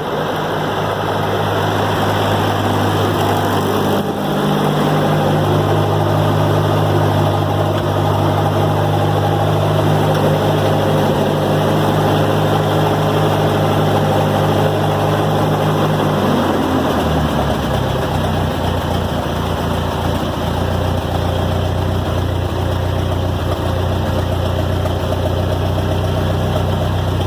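Ferguson TO-20 tractor's four-cylinder gasoline engine running as it warms up after a cold start. It speeds up about four seconds in, then drops back to a slower, deeper idle about sixteen seconds in.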